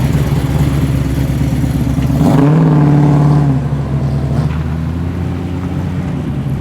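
Modified Ford XE Falcon engine running as the car rolls past. About two seconds in it is revved, and the pitch rises and holds for about a second. It then drops back to a lower, steady note.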